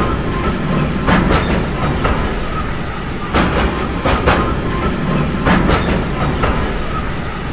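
Train running along the track: a steady rumble with wheels clattering over rail joints in quick pairs, clickety-clack, every second or so.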